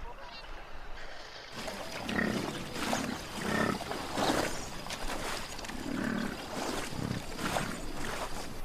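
A large wild animal growls in a run of about seven short, rough calls with uneven gaps.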